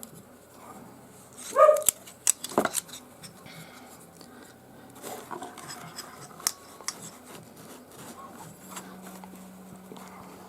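Metal teleprompter mounting rings clinking and being handled as they are worked into a tight storage bag: scattered clicks and knocks, loudest about two seconds in.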